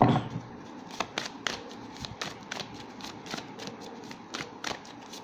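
A tarot deck being shuffled and handled by hand: a run of quick, irregular card snaps and flicks, with a louder thud right at the start.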